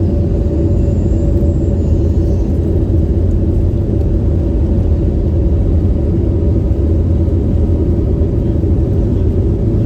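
Steady low rumble of a jet airliner cabin in flight, with a faint constant hum above it.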